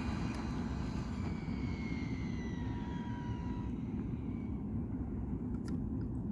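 Arrma Felony RC car's electric motor and drivetrain whining, the high whine falling in pitch and fading out over the first few seconds as the car slows and moves away, over a steady low rumble. A few sharp clicks near the end.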